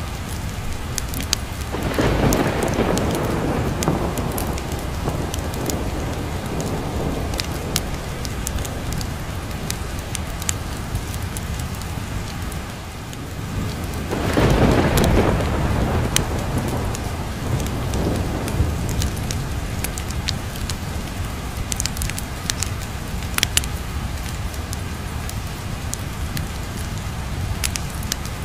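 Steady heavy rain with two rolls of thunder, one about two seconds in and a bigger one about halfway through, each swelling and then slowly dying away. Scattered sharp crackles and pops from a log fire are heard over the rain.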